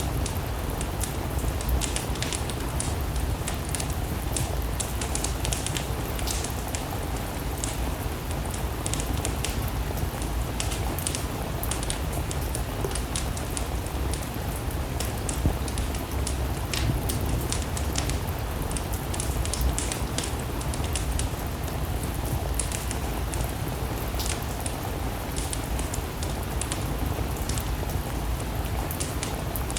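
Steady rain together with a crackling wood fire: a constant hiss and low rumble dotted with frequent sharp clicks and pops.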